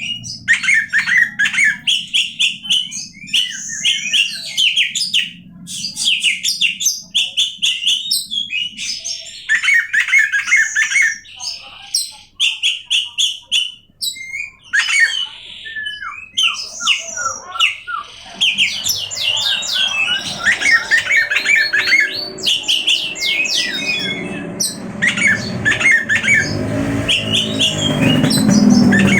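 Oriental magpie-robin (kacer) singing a long, varied song of quick whistles, chirps, trills and harsh notes, with hardly a pause. A low hum runs underneath and grows louder near the end.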